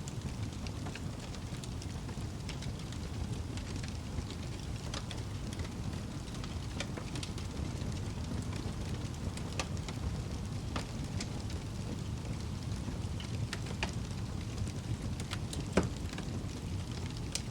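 Wood fire burning in a fireplace: a steady low rumble of the flames with scattered sharp crackles and pops from the burning logs, one louder pop near the end.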